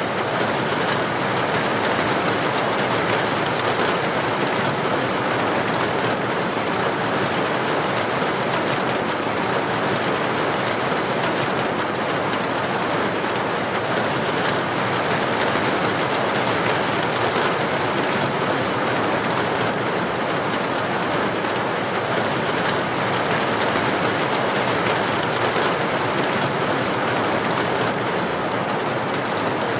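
Heavy rain falling steadily on a street: an even, unbroken hiss of rain.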